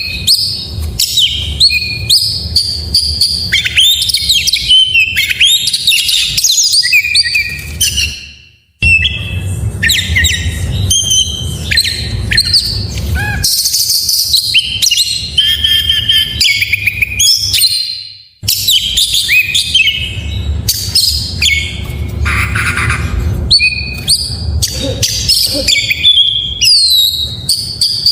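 Oriental magpie-robin (kacer) singing a continuous, fast song of varied whistled phrases, sweeps and chirps, full of imitated notes of other birds, over a low steady background rumble. The song fades out and restarts twice, about 9 and 18 seconds in.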